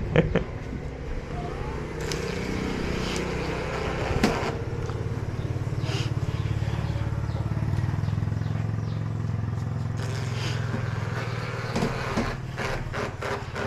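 A steady low motor hum that builds up after a few seconds and fades before the end, with a few sharp clicks and taps over it.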